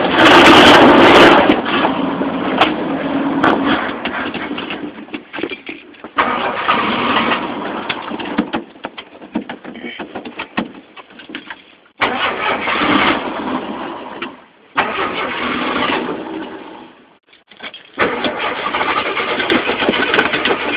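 Carbureted Ford inline-six engine on a cold start, catching and running in surges that die away and pick up again several times, unable to keep running. The owner puts the stumbling down to it being out of gas.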